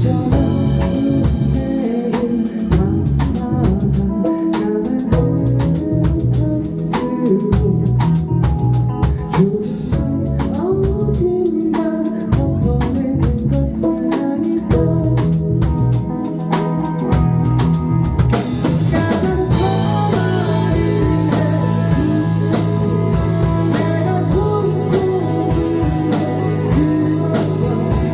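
Live rock band playing on drum kit, electric guitar and bass, with rapid drum hits. About 19 seconds in, the band moves into a fuller section with held bass notes under a steady wash of cymbals.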